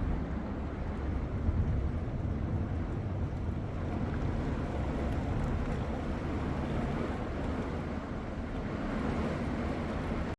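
Storm wind gusting through heavy, pouring rain, the wind buffeting the microphone.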